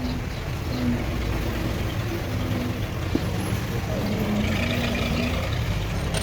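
A steady low engine rumble, like a truck or other vehicle idling, with a single sharp click about three seconds in.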